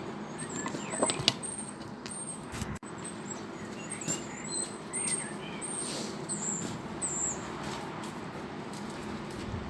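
Birds chirping repeatedly, with a few short sharp clicks or knocks about a second in and again before three seconds, over a steady low background hum.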